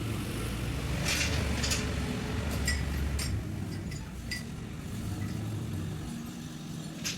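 A handful of sharp metallic clinks and taps of metal tools and parts, spaced irregularly, over a low steady mechanical rumble.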